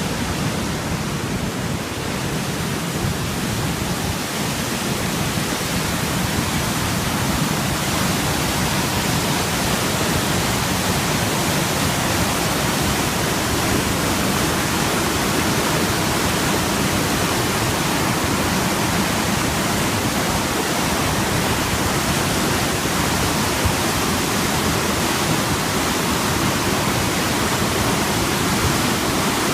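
Swollen, flooding creek water rushing: a loud, steady, even noise that grows a little louder a few seconds in.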